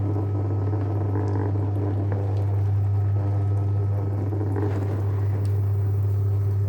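JW Ratcliffe and Sons electric pottery wheel running with a steady low motor hum, holding its speed under hand pressure, while wet porcelain clay squelches under the potter's hands as it spins.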